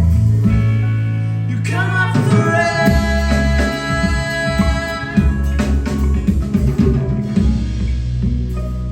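Live rock band playing: drum kit, electric guitars and bass, with a singing voice over them.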